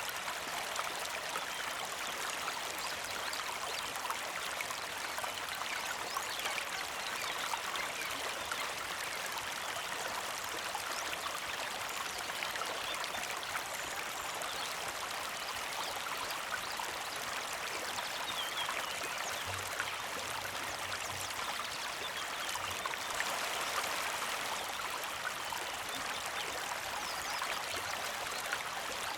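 Small mountain creek flowing steadily over stones, a constant even trickle and burble of water.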